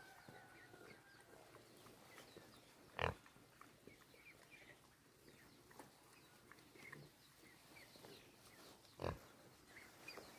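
Pig grunting twice, two short grunts about six seconds apart, with faint high chirps in between.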